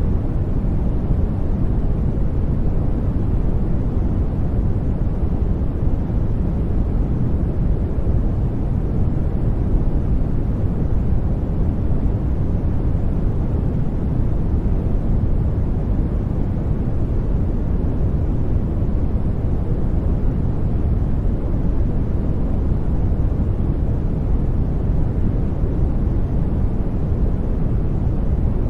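Steady generated noise of the sleep-noise kind, an even, unchanging rush weighted heavily to the low end: deep, with little hiss.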